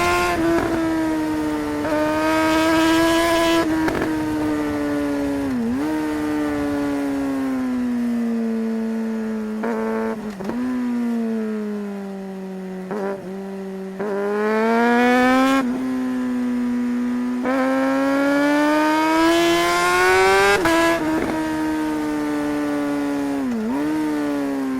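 2008 Suzuki GSR600's inline-four engine under way, its pitch rising as it accelerates and falling as it slows, several times over. It drops briefly and sharply at gear changes made with a quickshifter.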